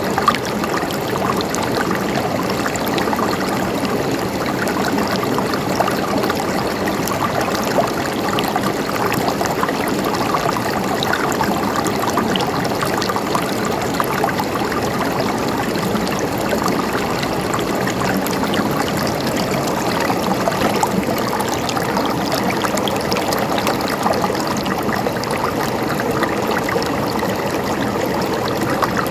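Mountain water flowing, a steady gurgling rush with fine splashing detail and no breaks.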